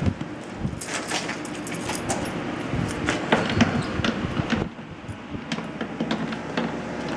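Metal tools and parts being handled: scattered clicks, clinks and knocks over a steady background hum that drops off about two-thirds of the way through.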